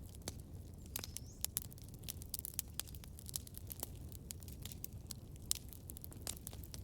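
Campfire crackling: irregular sharp pops and snaps of burning wood over a low, steady rumble of flame.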